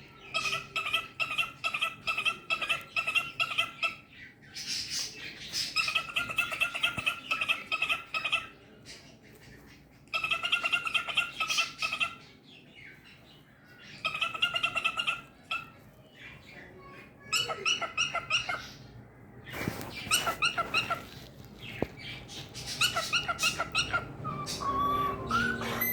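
Pet cockatiel chattering and singing in bursts of rapid, repeated chirps, each run lasting about two seconds, with short pauses between.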